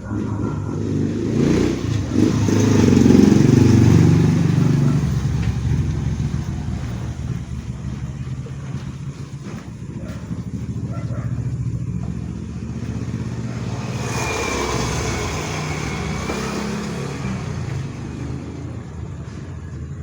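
A motor vehicle's engine running, swelling louder a few seconds in and then settling to a steady hum.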